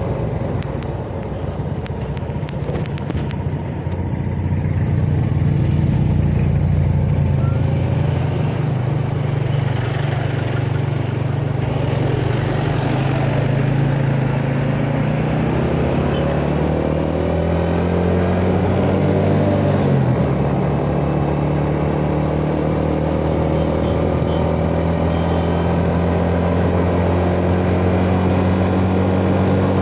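Yamaha Jupiter Z's single-cylinder four-stroke engine running on the road, heard from the rider's chest. It eases off briefly near the start, then picks up, its pitch climbing through the middle and changing abruptly about two-thirds in before holding steady.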